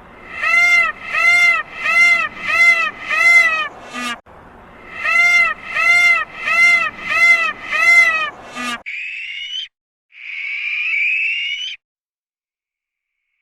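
An animal calling: a run of about seven rise-and-fall calls at nearly two a second, a short break, then a second such run, followed by two shorter, rougher sounds with a rising pitch before it falls silent.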